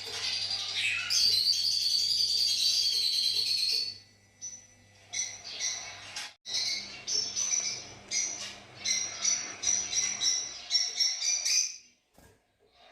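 Fischer's lovebirds chirping in a dense run of rapid, high-pitched twitters, with a short lull about four seconds in and a pause near the end.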